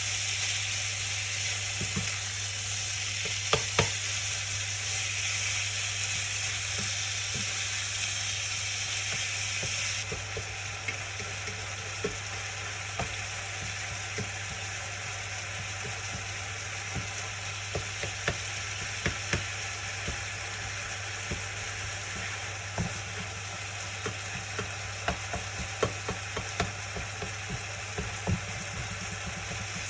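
Food sizzling in a frying pan while a utensil stirs it, with scattered taps and knocks against the pan. The sizzle is loud for the first ten seconds, then drops sharply. The taps come more often in the second half, over a steady low hum.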